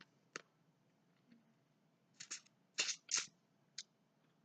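Eating sounds from a crab-leg and shellfish meal: about five short, sharp crackling clicks of shell and mouth noise, the loudest cluster around three seconds in.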